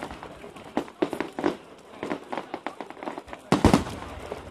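Fireworks going off: a run of sharp bangs and cracks, each trailing off in an echo, with the loudest bang about three and a half seconds in.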